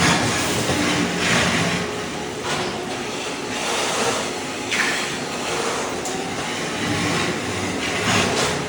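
Ride-on floor scraper running, its blade scraping thin-set tile mortar off a concrete slab: a steady grinding noise with several louder scraping surges.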